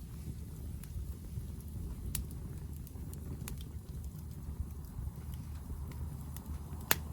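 Hardwood fire crackling, with scattered sharp pops and one loud pop near the end, over a low steady rumble.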